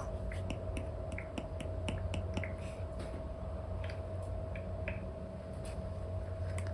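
Apple Pencil 2 with an Elecom nib tapping and stroking on an iPad's paper-like screen film: quick irregular clicks and short scratchy strokes, over a steady low hum.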